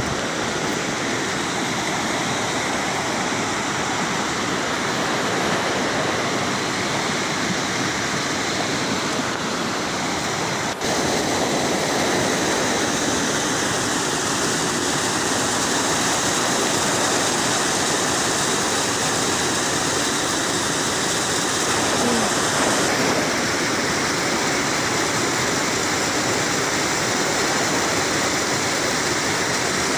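Waterfall rushing steadily, a dense unbroken wash of falling water. There is a brief dip about eleven seconds in, after which it is a little louder.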